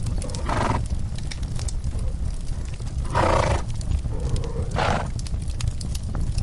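Three short breathy blows from a horse over a fireplace crackling with scattered pops and a steady low rumble.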